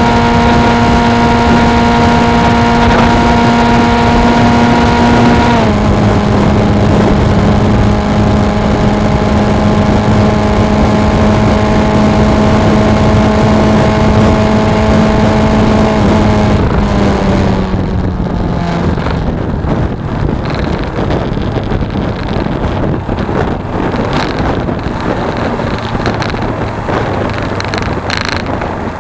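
Suzuki V-Strom 250's parallel-twin engine running steadily at cruising speed, its note stepping down slightly about six seconds in. Past the middle the engine note falls away as the throttle is rolled off, leaving mostly wind and road noise.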